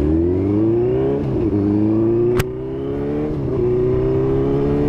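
Benelli TNT600 inline-four engine accelerating hard, its pitch climbing and dropping back twice as the rider shifts up through the gears. A single sharp click about halfway through.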